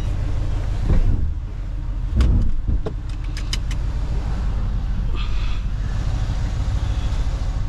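Mercedes-AMG GLE 63 S 5.5-litre twin-turbo V8, fitted with downpipes and decatted, running with a steady low rumble that swells briefly twice, about one and two seconds in. A few sharp clicks come between about two and four seconds in.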